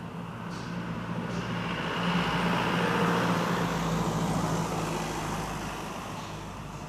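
A vehicle passing by: a steady engine hum and noise that swells to its loudest about three seconds in, then slowly fades.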